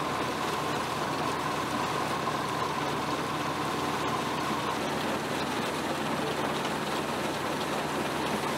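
A 1936 Ransomes, Sims & Jefferies threshing machine running on a belt drive from a tractor, with a steady mechanical hum under a spread of hiss. A high whine from the machinery stops about halfway through.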